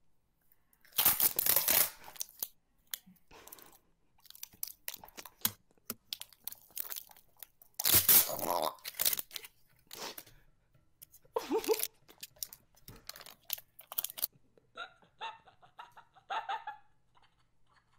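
Crunching, crackling and tearing noises in several separate loud bursts, with scattered small crackles between them and a few short pitched squeaks near the end.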